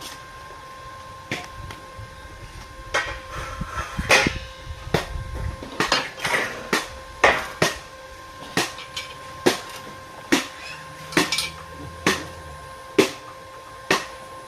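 A run of sharp knocks, irregular and about one a second, over a faint steady hum.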